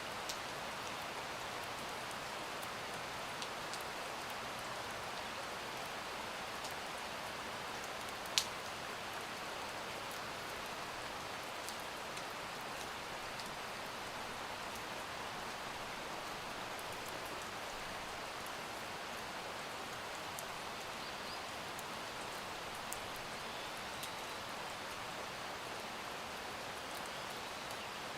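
Steady rain: an even hiss of falling rain with scattered faint drop ticks and one sharper click about eight seconds in.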